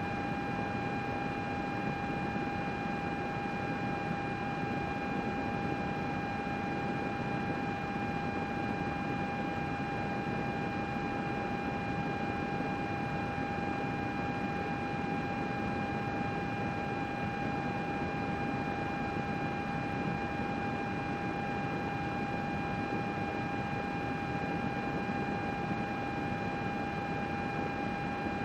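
A computer running, its cooling fans giving an even rushing noise with a steady whine held at one pitch.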